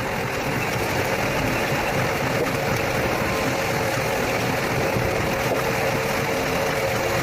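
Log-peeling (rotary veneer) machine running steadily as it peels a wood log into a thin continuous roll, a constant machine drone with a steady tone.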